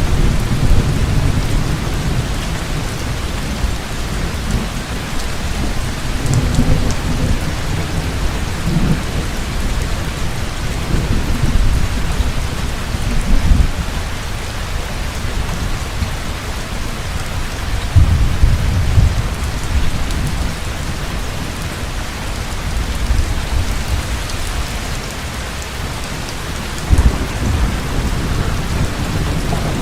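Heavy rain pouring steadily, with thunder rumbling low in the background. The rumbles swell and fade several times, strongest about 18 seconds in.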